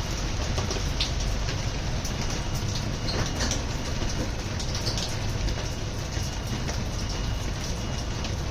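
Faulty roller shutter moving: a steady low rumble with the metal slats rattling and clicking.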